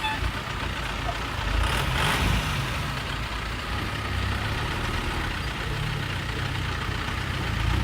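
Dump truck's diesel engine running steadily with a low drone, a slight swell about two seconds in, as the truck tips its load of soil.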